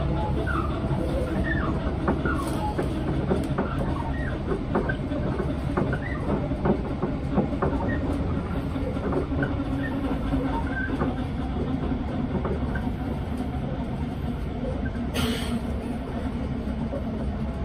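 Passenger train running at speed, heard from inside the carriage: a steady rumble of wheels on the track with short squeaks scattered through the first half. A brief hiss about fifteen seconds in.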